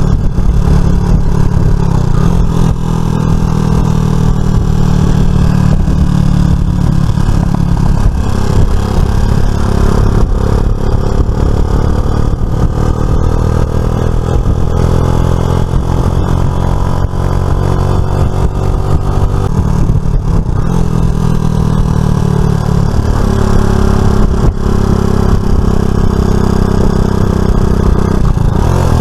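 Suzuki FL125 Address scooter's small single-cylinder engine running on the road, its pitch rising and falling with changes of speed, over steady wind and road noise.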